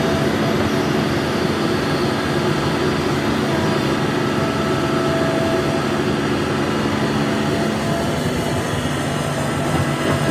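Hitachi ZAXIS 350H hydraulic excavator working, its diesel engine running steadily under load with an even, continuous drone.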